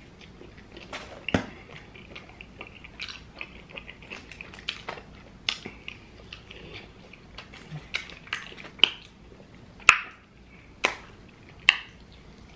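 Close-miked chewing and wet lip-smacking as a man eats a slice of pizza and then a hot wing, with sharp smacks scattered throughout and the loudest few near the end.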